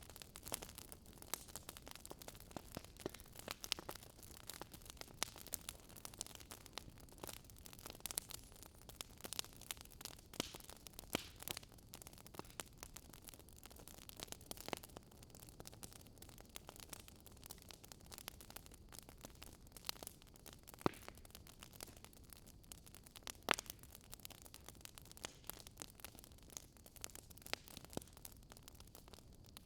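Wood fire crackling in a fireplace: irregular sharp snaps and pops over a soft hiss, with a few louder pops.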